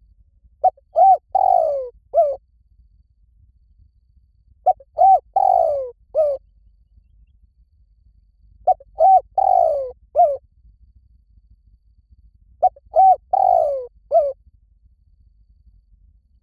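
Spotted dove cooing in four repeated phrases about four seconds apart. Each phrase is a short opening note, two quick coos, a longer falling coo and a short closing note.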